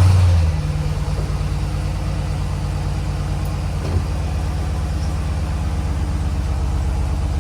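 2020 Jeep Grand Cherokee SRT's 6.4-litre 392 Hemi V8 on its stock exhaust, flaring briefly as it catches on start-up, then settling into a steady, quiet idle that sounds like a purring cat.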